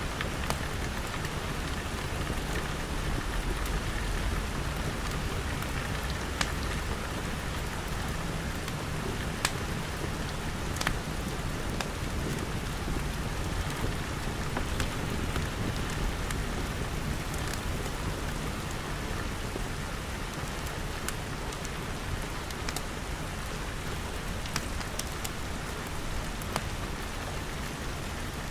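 Steady rain pattering on glass, with a low rumble under it and occasional sharp crackles and pops from a wood fire.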